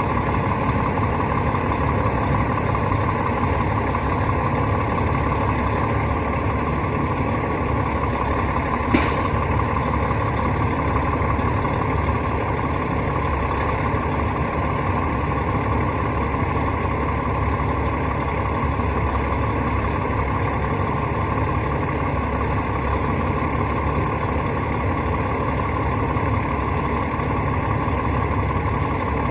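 Rooftop HVAC unit running steadily with a constant mechanical hum and rush of fans and compressor. There is one sharp click about nine seconds in.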